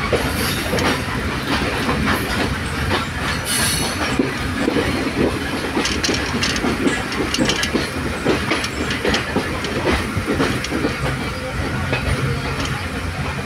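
A train running, heard from aboard a carriage: a steady rumble with irregular clattering as the wheels pass over rail joints and points. A steady low hum comes in near the end.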